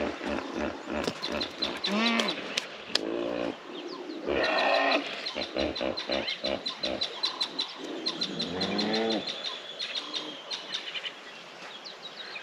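A hippopotamus calling: a quick run of short grunts, then several longer, deep honking calls. Birds chirp throughout.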